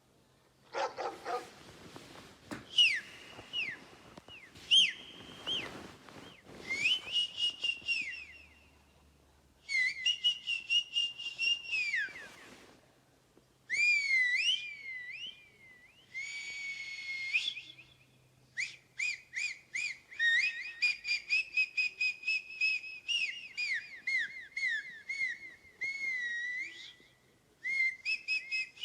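High-pitched whistle-like chirps and warbling trills in bursts of a few seconds, separated by short pauses; the later bursts run as fast strings of short notes.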